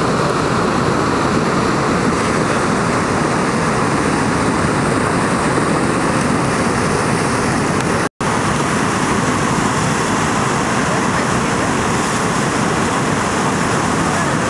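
Steady rush of whitewater from tidal rapids, with a brief dropout about eight seconds in.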